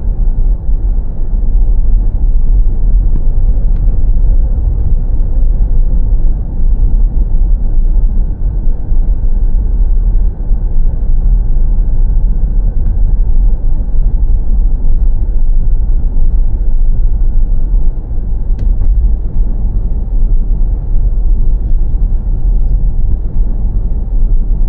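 Car driving along a road, a loud steady low rumble of engine and road noise.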